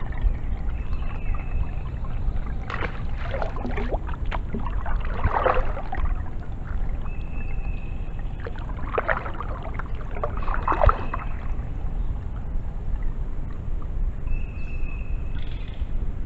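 Kayak paddle strokes, the blade splashing and dripping in the water every few seconds, over a steady low rumble.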